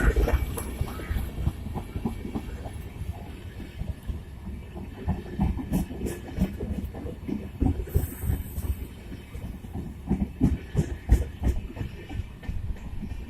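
Empty LHB passenger coaches of a WDM2-hauled train rolling past over the track, with wheels clicking and thudding irregularly over rail joints above a steady low rumble.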